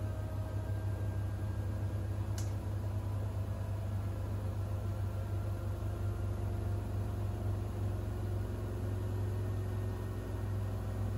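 Siemens iQ700 WG56B2090 front-loading washing machine running mid-cycle: a steady low hum with faint motor whines drifting slowly in pitch, and a single short tick about two and a half seconds in.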